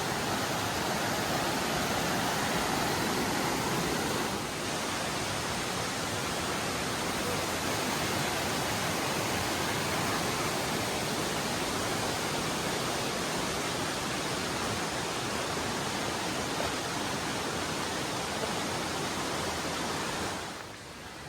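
Steady rush of flowing creek water, an even hiss without any rhythm or tone, which drops away sharply near the end.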